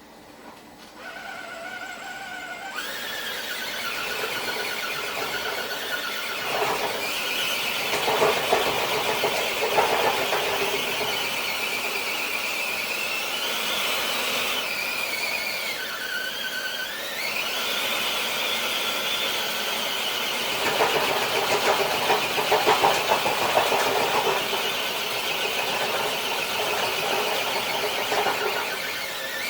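An RC crawler truck's electric motor and gear train whining under load as it pulls a weighted sled on concrete. The pitch rises a few seconds in, dips briefly about halfway and climbs back, with two rougher, noisier stretches.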